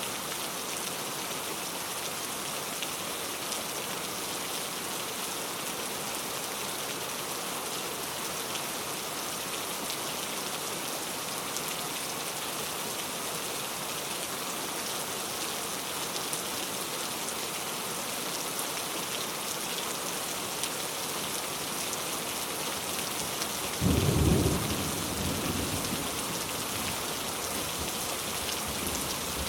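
Steady rain falling, with a single clap of thunder near the end that dies away over a second or two.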